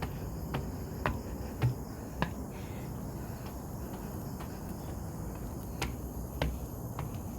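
Footsteps climbing steps, sharp clicks about two a second that pause for a few seconds midway, then resume. Behind them is a steady high insect drone and a low rumble.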